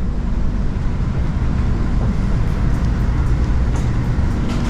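Steady low rumble of a moving Amtrak Acela train, heard from inside a passenger car, with a few faint ticks.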